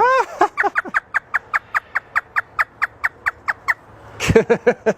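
African grey parrot imitating a hysterical laugh. It gives one long falling note, then a fast run of short falling notes, about five a second, and a few more warbling calls near the end.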